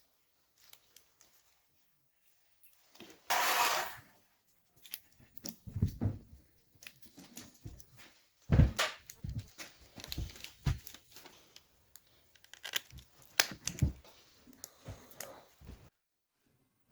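Hand work on engine parts: a brief tearing or rustling noise about three seconds in, then a run of irregular clicks, knocks and light thumps as parts and tools are handled.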